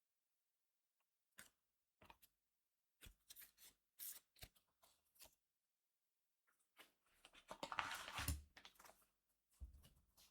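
Trading cards and booster packs handled by hand: scattered short crisp rustles and clicks, with a denser, louder stretch of rustling around eight seconds in.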